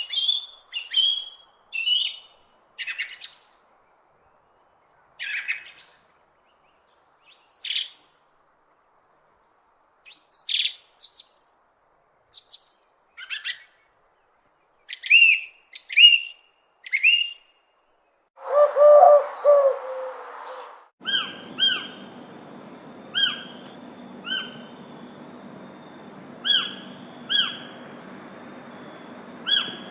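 Songbirds singing: varied short, high chirps and whistled phrases with silent gaps between them. About two-thirds of the way through, a lower, longer call is heard. Then, over a steady background hiss, a bird repeats one short call about once a second.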